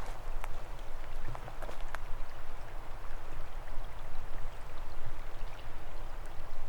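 Small forest stream trickling and splashing, with scattered light drips and ticks over a steady watery hiss.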